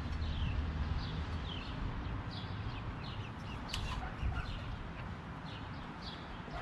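A bird calling over and over in short, high, falling chirps, about two a second, with one sharp click about halfway through.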